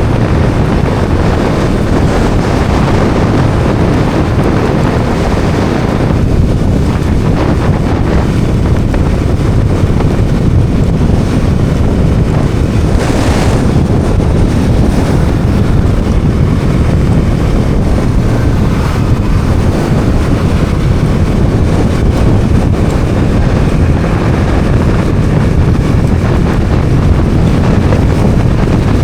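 Wind buffeting the microphone of a Bajaj Dominar 400 single-cylinder motorcycle riding at road speed, with the bike's running sound beneath the steady rush. A brief, brighter whoosh comes about thirteen seconds in.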